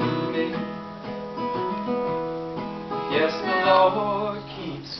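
Acoustic guitar strummed with chords ringing on, in the closing bars of a folk song, with a brief sung phrase about three seconds in.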